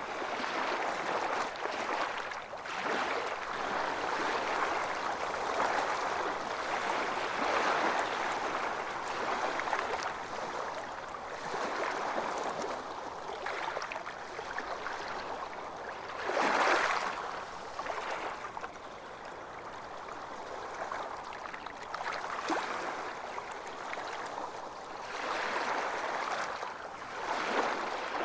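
Ocean surf washing onto a beach: a continuous wash that swells and recedes every few seconds, with one louder wave breaking a little past the middle.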